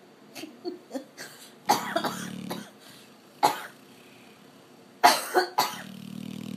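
Sleeping Labrador snoring: sudden, loud, cough-like snorts, three in all. The first, about two seconds in, and the last, around five seconds, each run into a rattling, buzzing snore about a second long.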